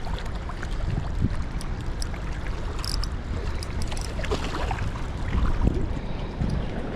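Steady rushing of a river current, with wind buffeting the microphone and a few faint clicks and knocks.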